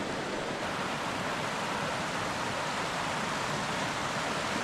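Steady rush of fast-flowing water from a creek and waterfall swollen with spring runoff.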